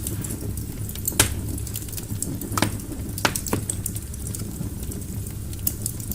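Wood fire burning in a fireplace: a steady low rumble of flames with about five sharp crackling pops from the burning logs.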